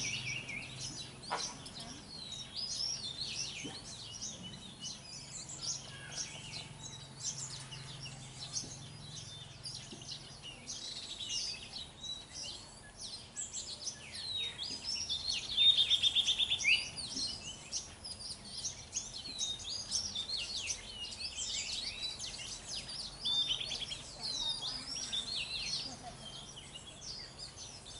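Birds chirping and calling almost without a break, many short high notes sweeping up and down, with a louder run of quick repeated notes just past halfway.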